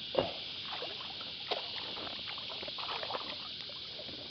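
Small splashes and water sloshing at a kayak as a hooked bream is played in, over a steady high drone of cicadas.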